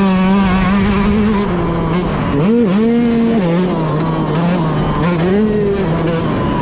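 Motocross bike engine running hard. Its pitch is held high, then drops a little, with quick throttle blips about two and a half, three and a half and five and a half seconds in.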